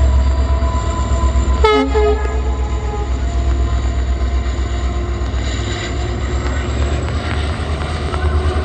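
Train running with a steady low rumble, and one short horn blast about two seconds in.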